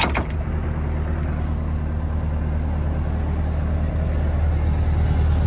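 Caterpillar 312 BL excavator's diesel engine idling steadily, a low even hum heard from inside the cab, with a few short clicks at the very start.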